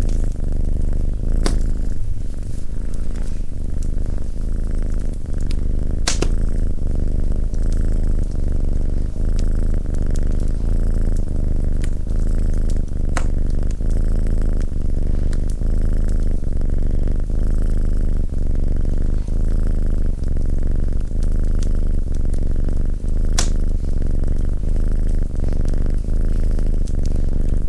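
Domestic cat purring steadily and loudly, close up, a continuous low pulsing rumble. A few sharp pops of a wood fire crackling cut in at scattered moments.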